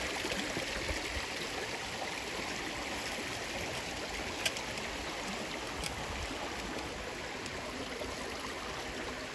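River water running steadily, an even rushing, with two faint clicks around the middle.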